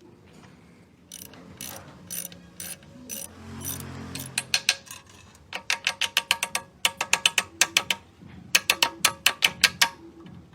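Hand ratchet wrench clicking: a few single sharp clicks, then quick runs of clicks at about six a second with short pauses between them, as a fastener is turned in strokes.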